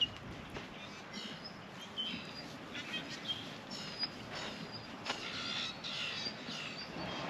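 Wild birds chirping in short, scattered calls, busier for a moment about five seconds in, over a quiet outdoor background.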